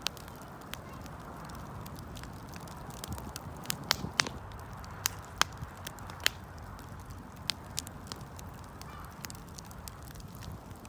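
Wood fire crackling: irregular sharp pops and snaps, several close together about four seconds in, over a low steady hiss of the burning.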